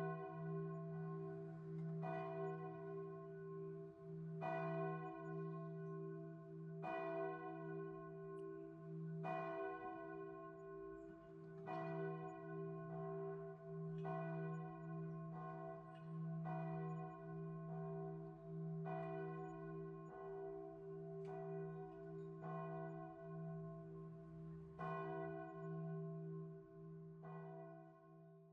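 A bell struck softly about every two seconds, each stroke ringing out over a steady low hum that carries on between strokes.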